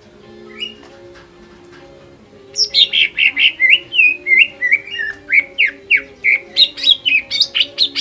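Green leafbird (cucak ijo) singing: a single short chirp about half a second in, then, from about two and a half seconds, a fast, loud run of sliding whistled notes at about four to five a second.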